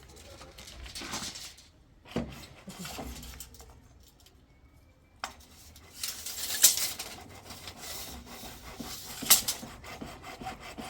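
Irregular rough scraping and rubbing strokes, like something being scraped or sawn by hand, with two sharper, louder scrapes about six and a half and nine seconds in.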